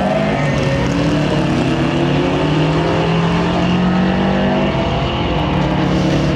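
Subaru WRX's turbocharged flat-four accelerating hard away from a standing launch. Its engine note is loud and continuous, and it rises and shifts in pitch as it pulls through the gears.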